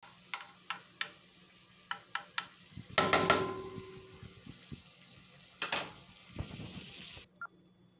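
Salsa sizzling in a ridged grill pan while a spatula stirs it, tapping and scraping against the ridges several times. About three seconds in comes a louder ringing clang of utensil or pan on metal, and another clatter near six seconds. The sound cuts off abruptly a little after seven seconds.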